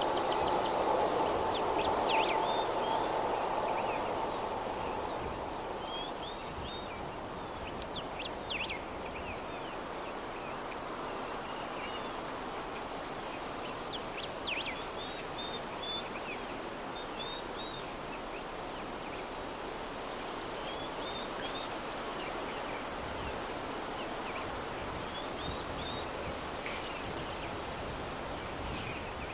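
Steady soft breeze, a little stronger for the first few seconds, with small birds chirping in short high phrases every few seconds.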